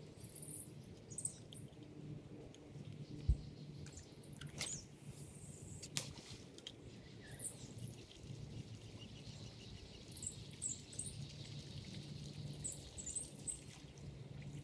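Small birds chirping intermittently against a low steady hum, with a sharp knock about three seconds in and a fainter click about six seconds in.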